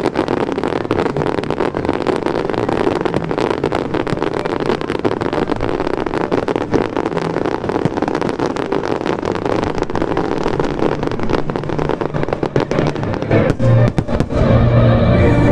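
Fireworks going off in a rapid, dense volley of crackling bangs over loud music, with the bursts thinning out near the end as the music carries on.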